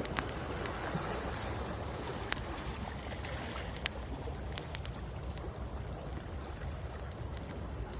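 Wood fire crackling with sharp pops every second or so, over the steady wash of ocean waves on the shore.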